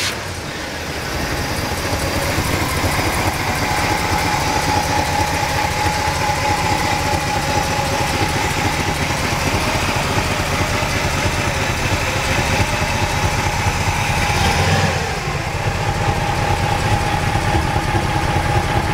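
1969 Chevrolet Camaro engine idling steadily with an even pulse, with one short swell in revs late on before settling back to idle.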